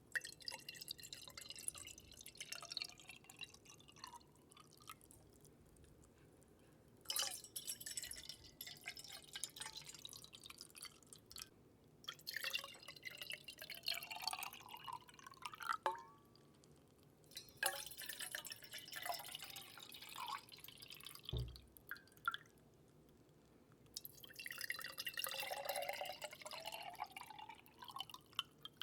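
Water trickled and dripped into a container close to the microphone in five separate spells of a few seconds each, its ring rising in pitch as each one goes on. There is a soft low thud about three-quarters of the way through.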